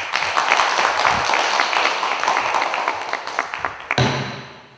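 Audience applauding, a dense patter of hand claps that dies away about four seconds in, followed by a single low thump near the end.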